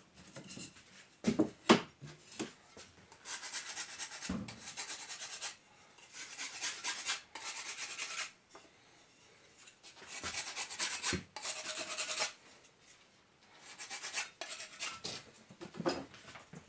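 Rasping scrape strokes on a brick as it is cleaned before gluing, coming in four bursts of about two seconds each, with a few sharp knocks about a second in.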